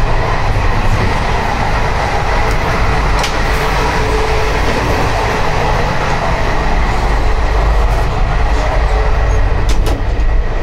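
Indian Railways Garib Rath AC three-tier coach on the move, heard inside its toilet: a loud, steady rumble of wheels on the rails. A few sharp metal clicks near the end come from the toilet door's sliding bolt being worked.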